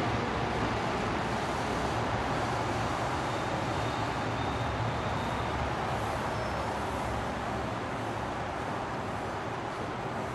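X11 electric commuter train pulling into an underground station and slowing to a stop: a steady rumble and rush of wheels on rail that eases off over the last few seconds.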